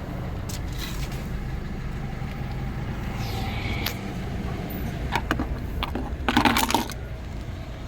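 Push-start car engine idling steadily, with a few light clicks and a short clatter about six and a half seconds in.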